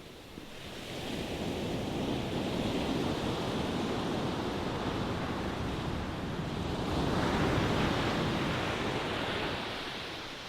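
Ocean waves breaking and washing: one wave swells in about half a second in and rushes for several seconds, a second wave surges in around seven seconds, then the wash fades near the end.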